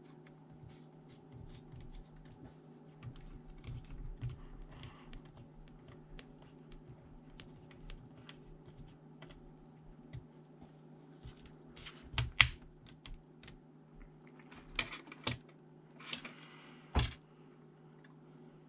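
Irregular light clicks and taps of plastic laptop parts being handled, over a steady low hum, with a few louder clicks about twelve, fifteen and seventeen seconds in.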